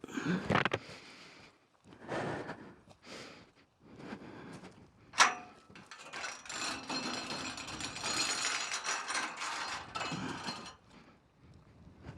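A metal farm gate being handled: short rattles, then one sharp metallic clank of the latch about five seconds in, then several seconds of continuous rattling noise as the gate is worked open.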